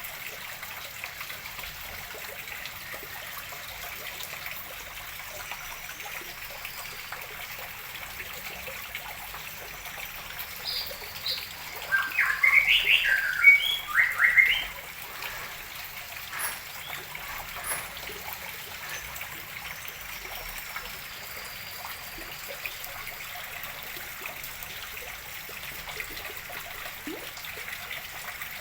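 Steady trickle of water running into a fish pond as it is refilled. About halfway through, a small bird chirps a quick burst of loud calls, with fainter bird whistles in the background.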